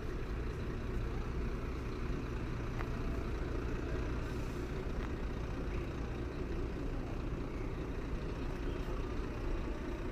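Heavy truck running steadily, an unbroken low engine rumble.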